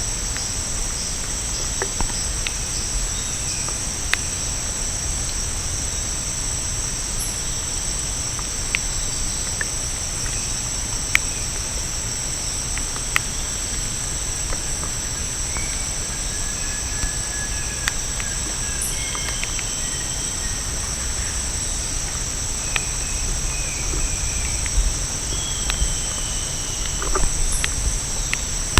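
Continuous high-pitched drone of rainforest insects, with scattered sharp clicks and a few faint short whistles.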